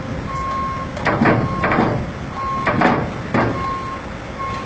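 Backup alarm beeping on one steady high pitch, about one beep a second, over a running heavy vehicle, with several short loud bursts of hissing noise.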